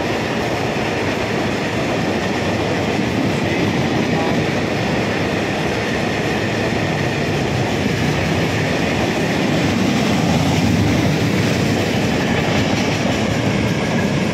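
Freight train of black ballast hopper wagons rolling through a station at speed, with a steady noise of steel wheels on the rails.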